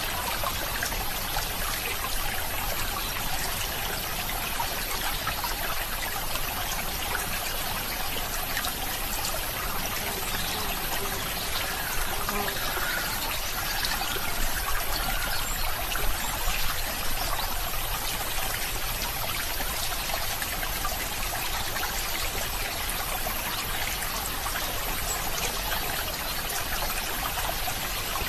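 Water trickling and flowing steadily, as in a small stream.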